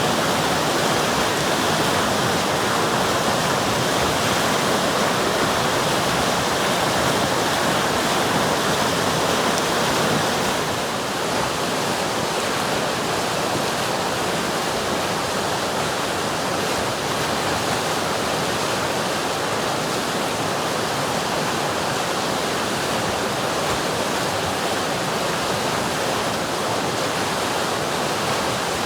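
River water rushing steadily over rocks, a constant full rush with no pauses; it dips slightly in level about ten seconds in.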